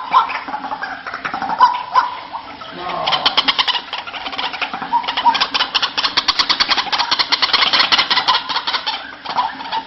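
White-breasted waterhen calling: scattered short notes, then, from about three seconds in, a long fast run of evenly repeated notes that stops near the end. This is the call used to lure other waterhens, a female calling to the male.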